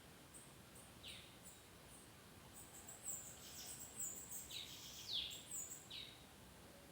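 Bananaquit singing: a run of high, thin chirps mixed with quick downward-sweeping notes, busiest in the second half.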